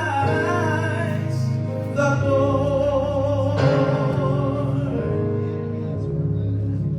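Choir singing over held instrumental chords; the voices drop away about three and a half seconds in, leaving the accompaniment sustaining chords.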